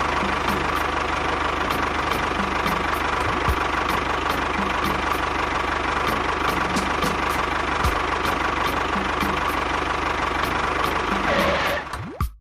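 Mini tractor engine idling steadily, cutting off near the end.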